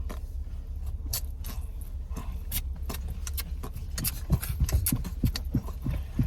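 Steady low hum of a car at idle, heard inside the cabin, with scattered clicks and knocks of things being handled that come thicker and louder from about four seconds in.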